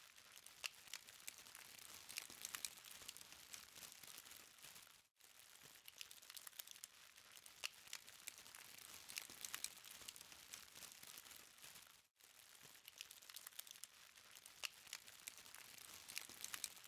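Burning charcoal crackling quietly, with a steady hiss and many small sharp ticks and pops. The sound cuts out briefly twice, about five and twelve seconds in.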